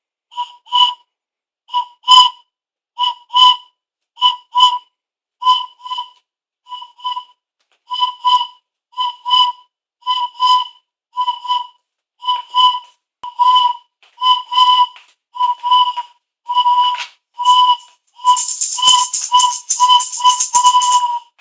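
Toy train whistle blown by a child in short, steady-pitched toots, often in pairs, about one or two a second. Near the end the toots come quicker and breathier.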